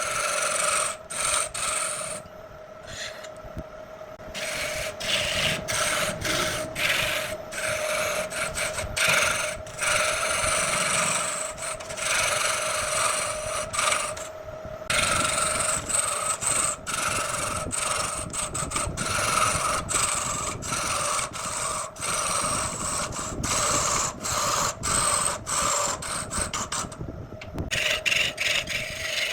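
Wood lathe running with a steady hum while a turning tool cuts the spinning wood. The scraping hiss of the cut keeps breaking off and starting again.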